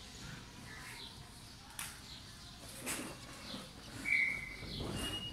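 Small birds chirping, with one louder, short, clear high chirp about four seconds in and a thinner high note near the end. There are also a couple of faint clicks.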